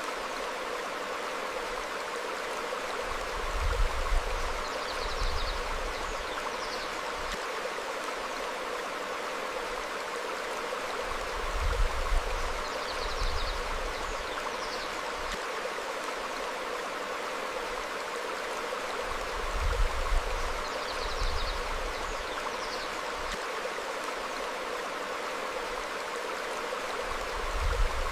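Stream flowing over rocks, a steady rush of water, with short, faint bird chirps every few seconds. A low rumble swells up about every eight seconds and is the loudest thing heard.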